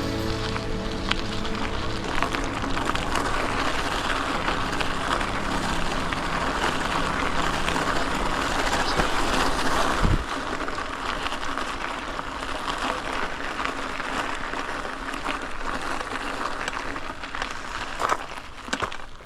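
Bicycle riding along a trail: steady tyre noise with many small clicks and rattles, and one low thump about ten seconds in. Background music fades out at the start.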